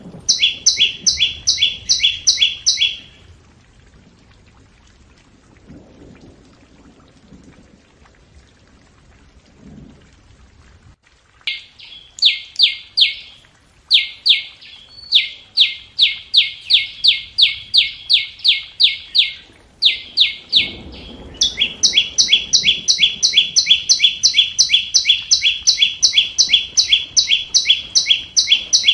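Scarlet-backed flowerpecker (sâu đầu đỏ) calling: runs of sharp, high, ticking notes about three to four a second, used as a lure call for trapping. The calls stop about 3 s in and resume around 11 s, becoming nearly continuous in the second half.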